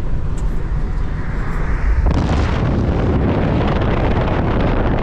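Wind buffeting the microphone in a low, steady rumble, with a louder rush of noise that comes in suddenly about two seconds in and holds.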